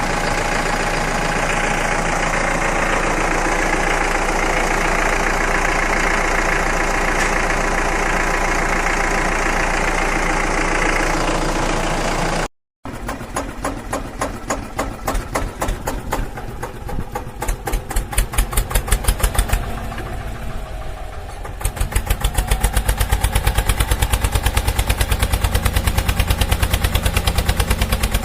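Tractor engine sound chugging with fast, even pulses. It cuts out for a moment about halfway through, then carries on, heavier and lower near the end.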